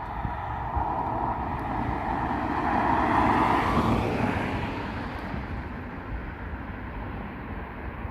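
Ford Mustang S197's 4.0 V6 with a custom exhaust. The exhaust note builds to a peak about three to four seconds in, then fades away.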